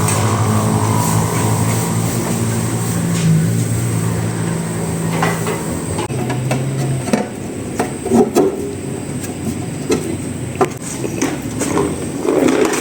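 A low, steady mechanical hum that stops about seven seconds in, followed by scattered metallic knocks and clatter.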